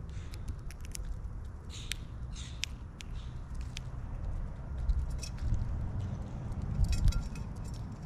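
Birds at a feeder: scattered sharp taps and clicks of pecking at seed, a few short high calls about two seconds in, and a louder harsh squawk with low bumps near the end.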